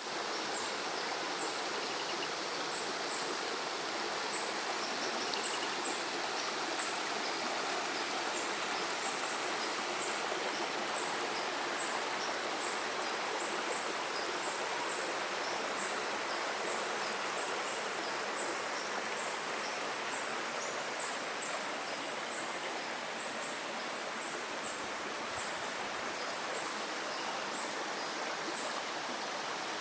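Steady rush of flowing water, with many short high chirps scattered over it and a thin steady high tone.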